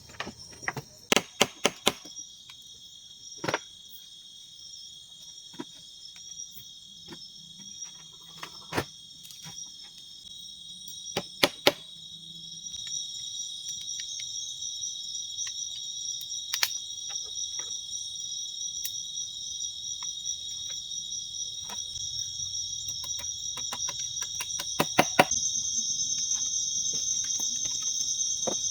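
Chorus of night insects, crickets or similar, chirring in steady high bands that grow louder about halfway through, with scattered sharp clicks and knocks, a few close together near the start, the middle and the end.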